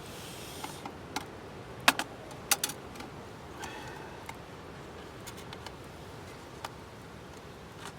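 Light clicks and clacks of small hard objects being handled, bunched in the first three seconds and fainter later, with short rustling at the start and again about four seconds in.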